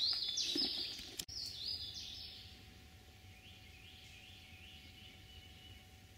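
Songbirds singing: a quick run of short, high, falling notes in the first two seconds, then a fainter, lower phrase repeated evenly. A single sharp click sounds just over a second in.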